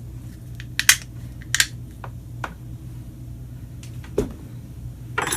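Scattered sharp clicks and taps of a hard plastic replacement plug housing being handled and fitted together around the extension cord, loudest twice in the first couple of seconds. A steady low hum runs underneath.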